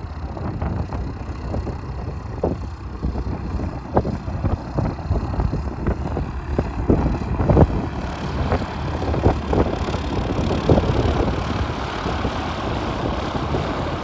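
Light aircraft's propeller engine running, its hiss building from about halfway through as it draws nearer, with wind buffeting the microphone.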